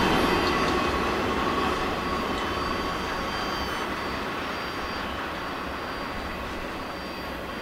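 Rolling rumble of a long BNSF intermodal freight train's last cars, truck trailers on flatcars, fading steadily as the train moves away, with thin high-pitched ringing from the wheels and rails over it.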